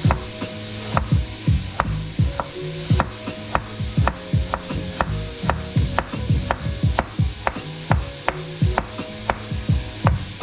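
Kitchen knife chopping vegetables on a cutting board, even chops about twice a second.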